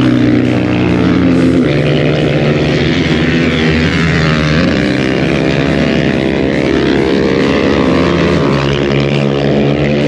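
Racing motorcycle engines running hard at high revs, the engine note shifting pitch in steps a few times.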